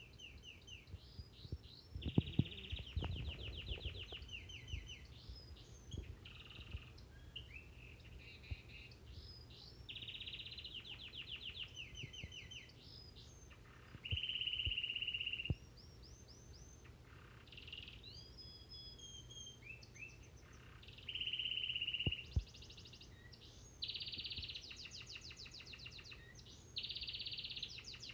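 Crested Gloster canary singing a long, continuous song of fast trills and chirps, broken by several louder sustained rolls lasting a second or two each. A few sharp knocks sound a couple of seconds in.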